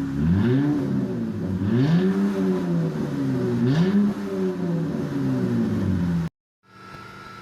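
2016 Dodge Challenger's 3.6-litre V6 exhaust, fitted with QTP electric exhaust cutouts, is revved three times in quick blips, each rising and falling back to idle. The engine idles steadily between the revs. Near the end the engine sound cuts off suddenly, leaving a much quieter steady hum.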